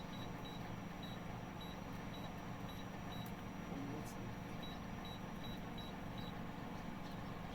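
A vehicle engine idling with a steady low hum, while an electronic warning beeper sounds short high beeps about twice a second, stopping for a moment about three seconds in and then resuming.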